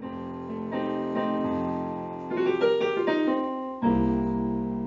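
Intro music played on piano or electric keyboard: a gentle melody over chords, ending on a low sustained chord about four seconds in that rings away.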